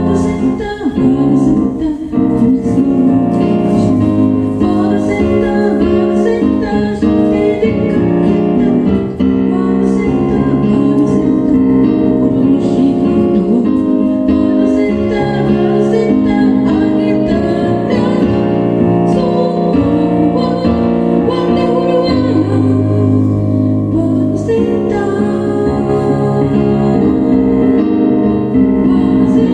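A band playing a song, with keyboard prominent and a voice singing over it.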